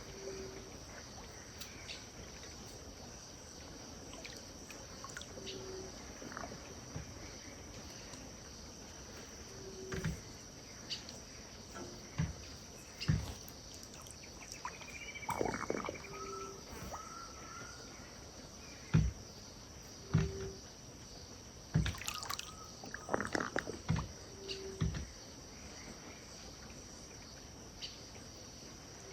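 Riverside wildlife ambience at dusk: a steady high insect drone, a short low call repeated about every four to five seconds, and a few bird calls near the middle. Irregular small splashes and knocks of water sound through it.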